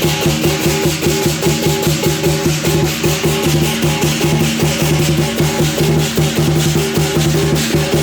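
Chinese lion dance drum beating a fast, steady rhythm with ringing metal percussion.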